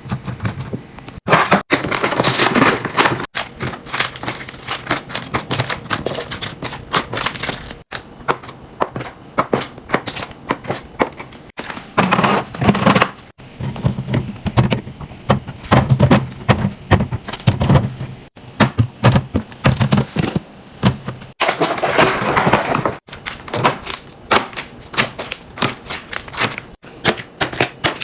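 Rapid clicking, clacking and knocking of containers, lids and packaging being handled and set down while a fridge is restocked. The sound comes in several short segments that cut off abruptly.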